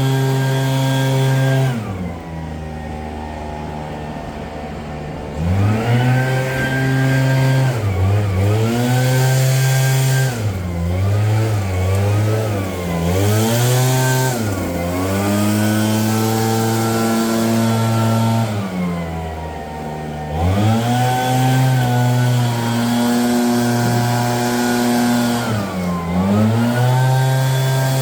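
Small petrol engine of a leaf blower run at full throttle, then let off to a low idle and opened up again several times, the pitch dropping and climbing with each change.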